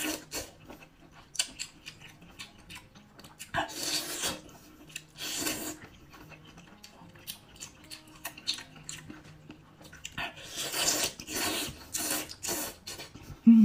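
Close-miked eating sounds of a person chewing baby octopus: wet mouth noises in several short bursts with small clicks between them.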